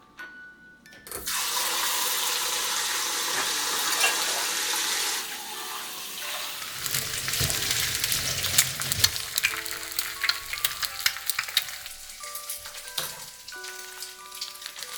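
Food frying in hot oil: a loud sizzle starts suddenly about a second in, eases after a few seconds, then settles into dense crackling and popping. Soft mallet-percussion music is heard behind it, coming back more clearly near the end.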